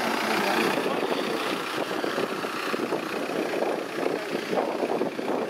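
Lifted Suzuki Samurai off-road vehicle's engine running steadily as it crawls over a steep ramp obstacle and back down onto the grass.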